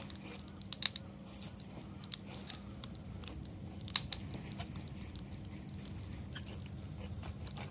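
Wood campfire crackling: irregular sharp pops and snaps over a steady low rush of flame, the loudest pops about one second and four seconds in.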